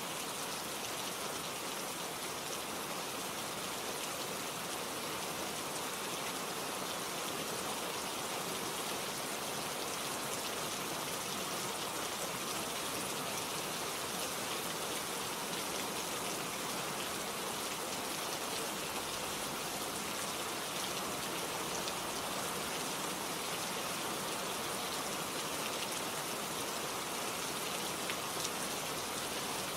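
Steady rain falling, with fine drop patter on surfaces.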